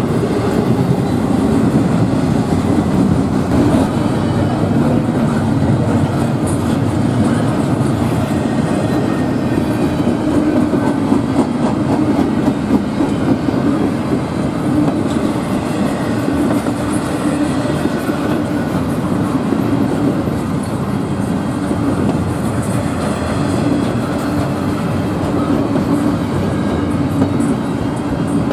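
Double-stack intermodal freight train rolling steadily past close by: a continuous loud rumble of steel wheels on the rails as the container cars go by.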